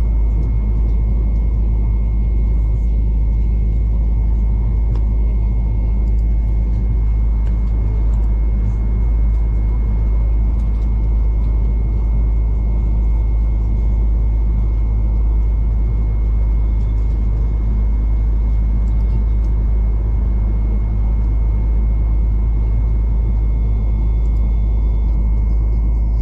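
Steady rumble of a V/Line passenger train running, heard from inside the carriage, with a constant high whine over the low drone.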